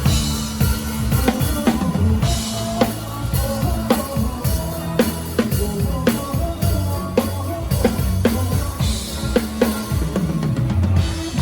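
Live drum kit played close up, kick and snare keeping a steady beat with cymbal and rimshot hits, over the band's bass in an instrumental passage without singing.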